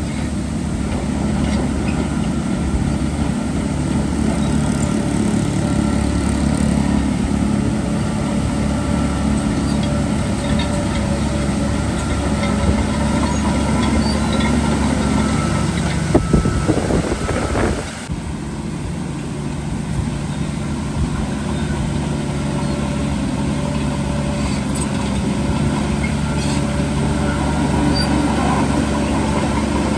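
Heavy diesel earthmoving machinery running steadily at a worksite. A louder burst of noise comes about 16 seconds in, and the sound then changes abruptly.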